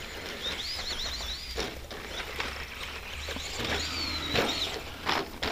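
Electric RC stadium truck's 15-turn brushed motor whining up and down in pitch with the throttle, twice, with a few short knocks from the truck bouncing over the rough dirt track.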